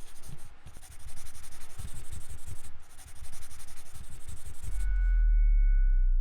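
Intro sound effect: a scratchy, rustling noise with irregular low thumps that cuts off abruptly, then a deep bass boom under a steady two-note chime.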